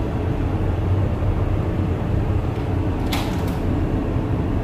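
Steady low drone of a ship's machinery, with a brief sharp clack about three seconds in.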